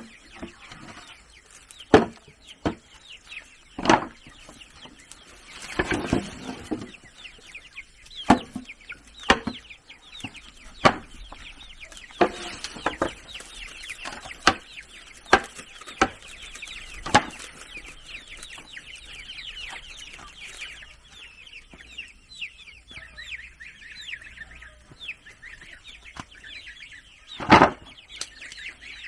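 Chickens clucking and chattering, with about a dozen sharp knocks at irregular intervals of one to two seconds, mostly in the first two-thirds, and one more near the end.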